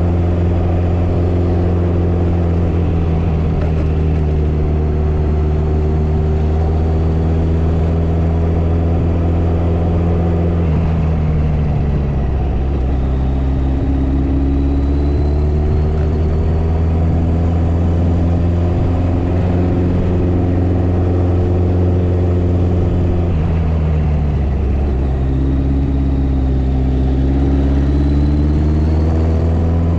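Motorcycle engine running under way, heard from on the bike, a steady low note whose pitch drops and climbs again twice as the rider changes throttle or gear.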